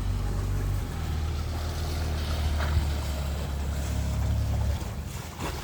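A small boat's motor running steadily under way, a low rumble with water and wind noise over it; it drops away about five seconds in.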